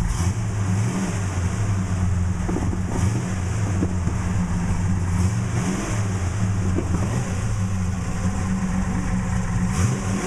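The 1969 Dodge Charger R/T's 440 big-block V8, bored .030 over with a street/strip cam, idling with a deep, uneven beat.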